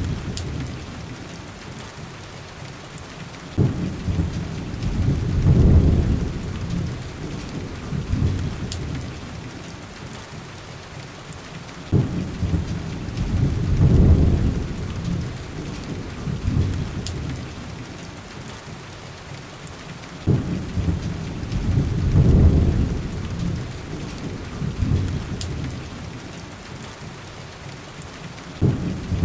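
Heavy rain falling steadily, with deep rolls of thunder that start suddenly, swell and fade, three times at roughly eight-second intervals, and a fourth beginning near the end.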